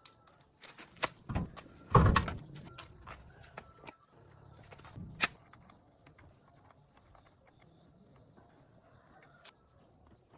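Scattered clicks, clanks and knocks from handling tools and parts during truck repair work, the loudest a heavy thump about two seconds in and a sharp knock about five seconds in, with a quieter second half.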